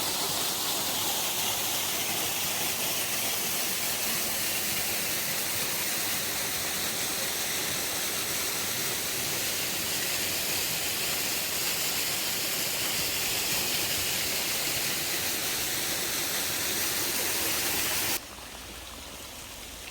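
Steady rushing noise of falling water, cutting off abruptly near the end.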